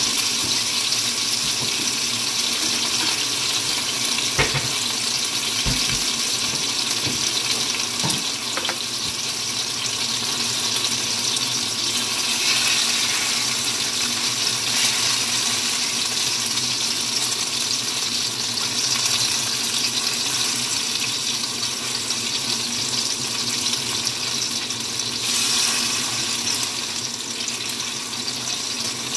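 Tofu deep-frying in a small pot of hot oil, a steady sizzle, with a few light knocks of kitchenware in the first several seconds.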